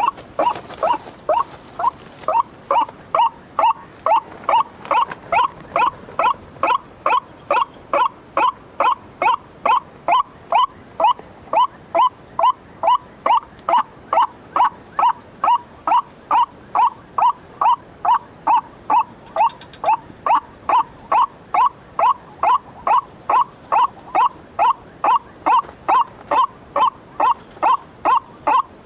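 White-breasted waterhen's 'ruak-ruak' call, repeated in a steady unbroken rhythm of about two calls a second.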